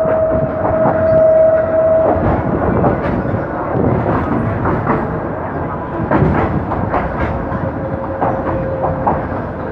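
Passenger train rolling into a station, heard from a carriage window: wheels clacking irregularly over rail joints and points under a steady running rumble. A steady high tone sounds through the first two seconds, and a fainter one returns near the end.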